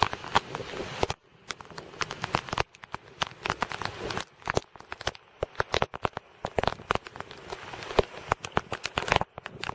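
Raindrops striking a hard surface close to the microphone in a thunderstorm: a dense, uneven patter of sharp taps, thinning out briefly a little after a second in.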